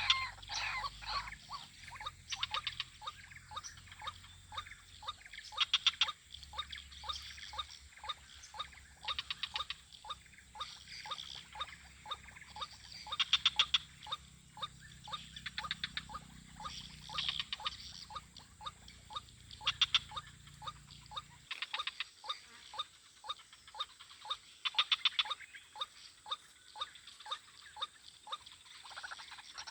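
Frogs calling in a swamp: a steady train of short clicking calls a few times a second, with a quick rattling trill every three to four seconds.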